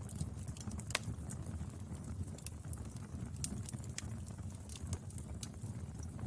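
Wood fire burning, a steady low rumble with irregular sharp crackles and pops, one loud pop about a second in.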